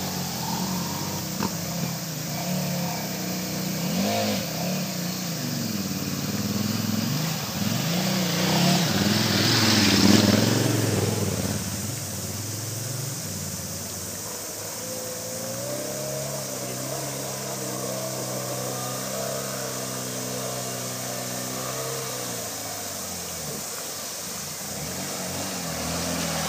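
Dirt bike engine revving unevenly as the bike is worked through a rocky stream, loudest about ten seconds in, then running at a steadier pitch in the second half, over the steady rush of stream water.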